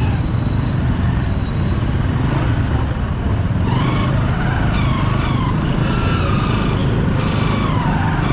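Bajaj Pulsar 200's single-cylinder engine running steadily under the rider. From about halfway in, wavering higher tones sound over it.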